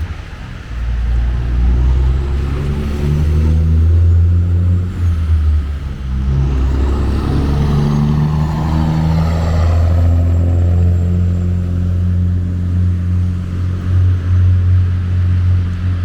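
Road traffic on a wet city street: a vehicle passes about halfway through, its tyre hiss rising and then falling away, over a steady low rumble of engines.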